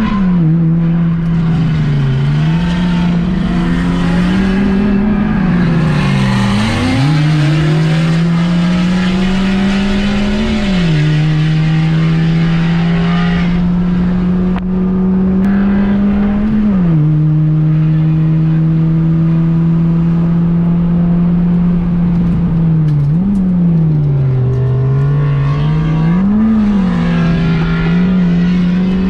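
Honda Fit GD3's 1.5-litre four-cylinder engine running hard on track. Its pitch climbs steadily, then drops sharply several times as it goes through gear changes and lifts.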